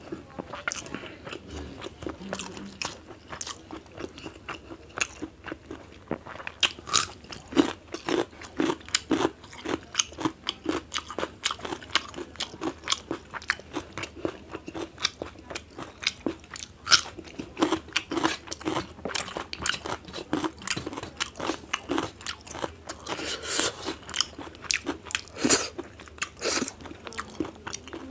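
A person chewing and crunching food close to the microphone: quick, wet mouth clicks and crunches a few times a second, with a few louder bites.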